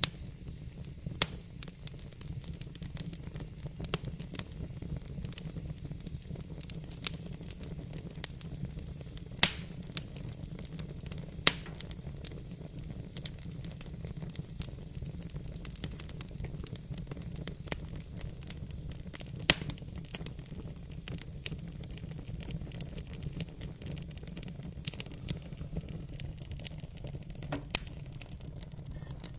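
Wood fire burning in a fireplace: a steady low rumble with irregular crackling and sharp pops, a few of them much louder than the rest.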